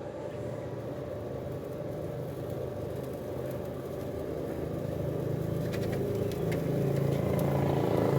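Old Ruston Hornsby stationary diesel engine running with a steady low drone that grows steadily louder.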